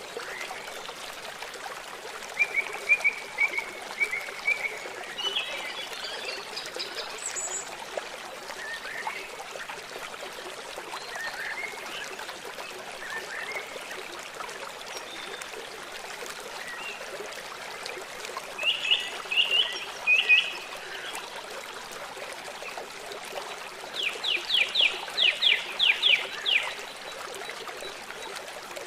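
Water trickling steadily, as of a small stream, with small birds calling now and then over it. There are a few short chirps a few seconds in and a cluster of calls about two-thirds through. Near the end comes a quick run of about ten sharp, falling notes.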